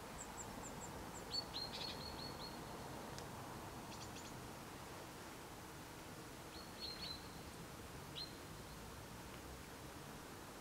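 Small songbirds chirping: a quick run of thin high notes at the start, then short sharp chirps in clusters a little over a second in and again near seven and eight seconds, over faint steady outdoor background noise.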